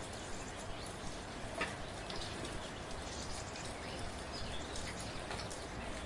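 Soft, steady rain falling, with many scattered individual drops ticking over an even hiss.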